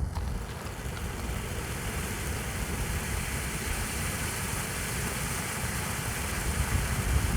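Ground fountain firework ('Peacock Feathers') spraying sparks with a steady hiss and rumble, with no bangs or crackles.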